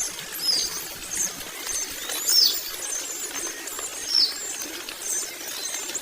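Long-tailed shrikes calling: repeated high, shrill chirps that slide down in pitch, coming at irregular intervals of about half a second to a second.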